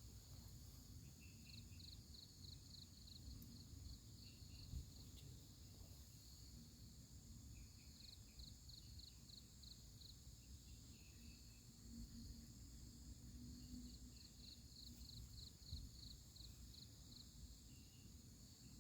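Night insects calling: a steady high-pitched drone with cricket-like chirping that comes in three bouts of rapid even pulses, about five a second.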